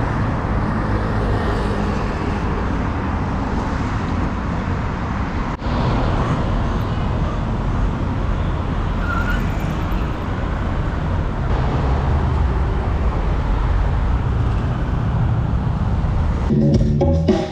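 Steady city traffic noise, a low rumble of passing vehicles, with a couple of abrupt shifts where the recording is cut. Music with drums comes in near the end.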